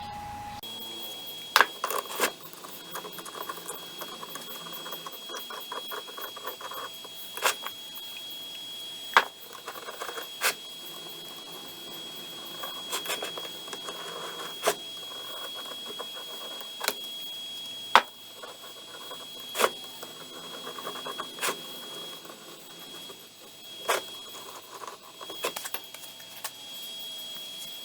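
Metal parts of a four-jaw lathe chuck being handled and fitted together: irregular sharp clinks and knocks every second or few, with lighter rattling and scraping between them, over a faint steady high whine.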